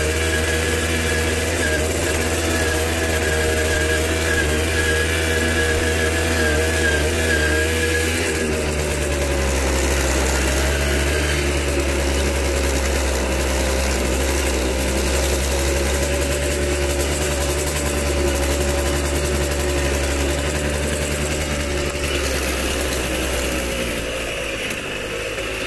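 Tomos CTX 80's 80 cc two-stroke engine running while riding, its note stepping lower about eight seconds in and easing off slightly near the end.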